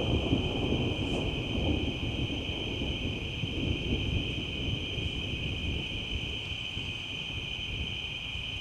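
Thunder rumbling low and slowly fading, over a steady high-pitched chorus of night insects.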